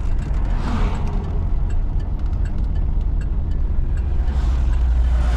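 Steady low rumble of a Pontiac Firebird's engine and road noise heard from inside the cabin while driving.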